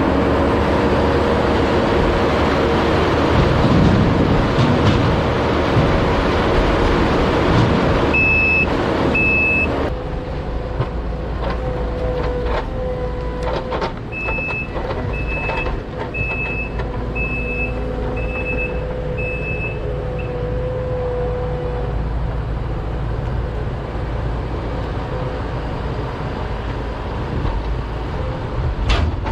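Truck engine running, then its backup alarm beeping about once a second as it reverses: two beeps about eight seconds in, then a steady run of beeps from about fourteen to twenty seconds in.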